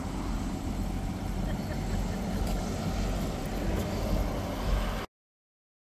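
A steady engine drone that cuts off to dead silence about five seconds in.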